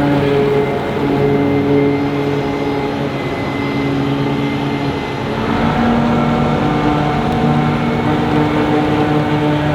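Heavy diesel farm machinery running steadily under load. The engine note shifts to different pitches about halfway through.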